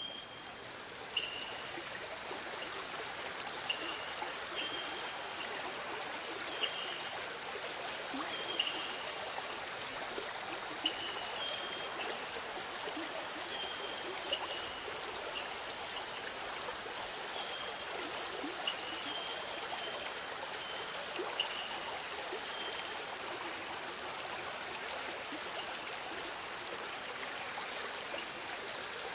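Small forest stream flowing and trickling steadily, under a continuous high insect drone. Short high chirps come every second or two, stopping about two-thirds of the way through.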